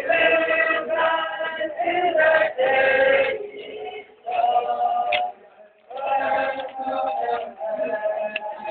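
A church congregation and choir singing a hymn together in held phrases, with short breaths between lines.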